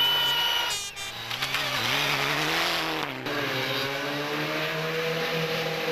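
Rally car engine running hard, its pitch rising and falling, then held high and climbing slowly after about three seconds in. A shrill steady tone sounds over it in the first second.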